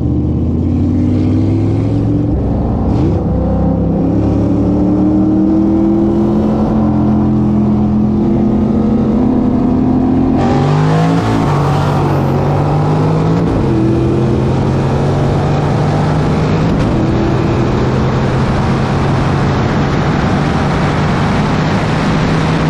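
V8 car accelerating hard at full throttle, its engine note climbing through the gears and dropping at each shift. A rush of wind noise comes in loud about ten seconds in.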